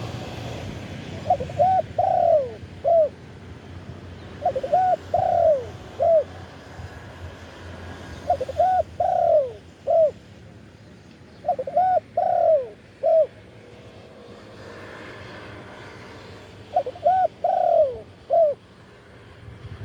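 Spotted dove cooing its song five times, each phrase four low coos with the third note drawn out and falling, repeated every three to five seconds.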